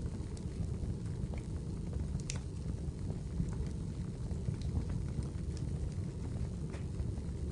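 Wood fire in a fireplace burning with a steady low rumble and scattered sharp crackles and pops, the loudest about two seconds in.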